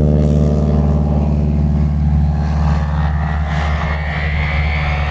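North American AT-6 Texan's Pratt & Whitney R-1340 radial engine and propeller running loud at power in a pass. The engine note grows a little fainter over the last couple of seconds while a high note rises slightly in pitch.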